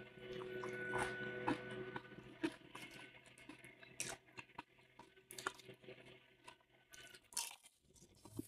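Close-up crunching and chewing of tortilla-chip nachos: scattered short, crisp crunches. A steady hum from a neighbour's lawn mower is heard in the first couple of seconds, then fades.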